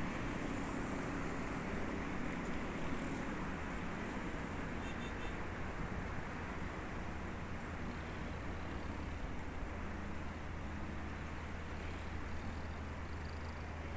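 A steady low rumble with hiss, like a running motor vehicle.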